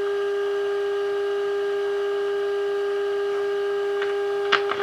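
Steady single-pitch test tone from the signal generator's modulation, heard through the 1948 Emerson AA5 radio's speaker while the set is being aligned. A few sharp clicks come near the end.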